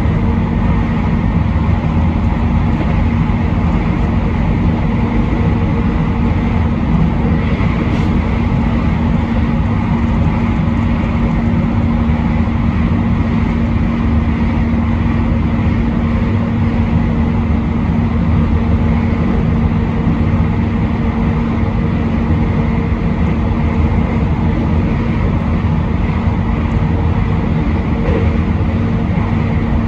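Passenger train running steadily along the line, heard from on board. A constant low hum rides over the wheel and rail noise, with a single short tick about eight seconds in.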